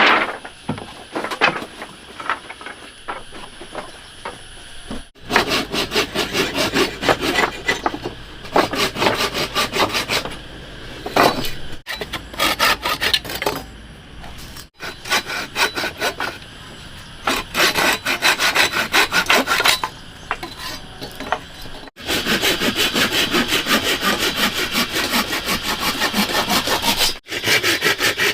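Hand saw cutting through wood in fast, even back-and-forth strokes, in several stretches that start and stop abruptly, with scattered knocks in the first few seconds.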